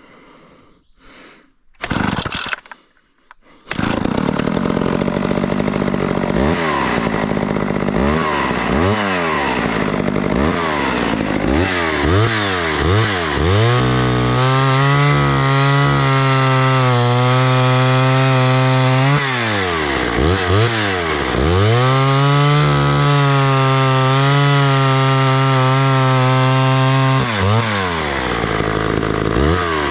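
Homelite Super XL two-stroke chainsaw starting about four seconds in, revving up and down, then held at high speed for two long stretches with a dip in speed between them, and dropping back near the end.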